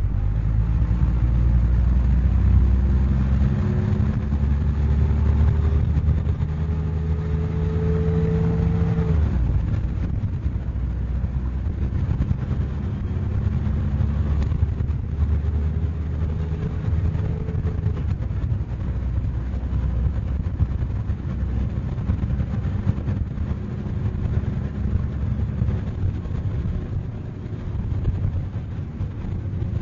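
Dennis Dominator double-decker bus's diesel engine pulling under load. Its note rises for about nine seconds and drops sharply at a gear change, rises again and changes up once more after about eighteen seconds, then runs more steadily.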